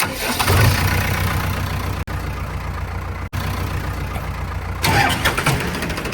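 Diesel engine of heavy machinery running steadily, surging louder about half a second in and again about five seconds in. The sound drops out for an instant twice.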